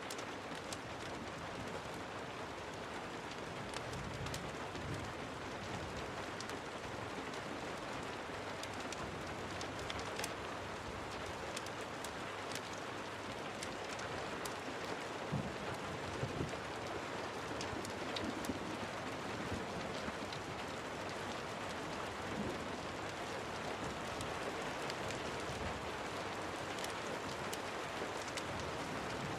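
Steady rain falling, an even hiss, with scattered sharp clicks throughout.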